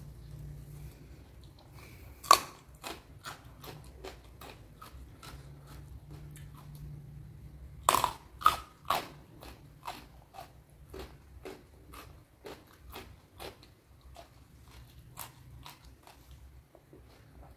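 Crunchy bites and chewing of raw food close to the microphone. There are two loud bites, about two seconds and eight seconds in, with steady crunching chews about twice a second between and after them.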